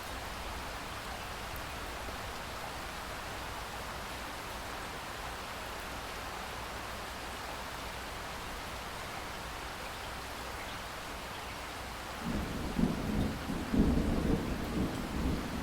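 Steady rain falling, an even hiss. About twelve seconds in, a low rumble of thunder sets in and swells, the loudest sound here, still rolling at the end.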